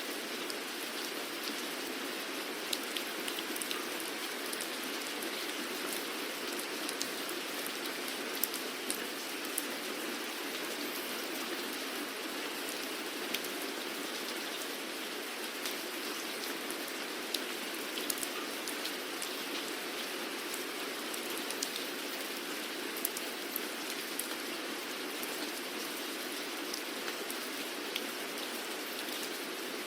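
Steady rainfall, an even hiss of rain with scattered sharp, distinct drop hits throughout.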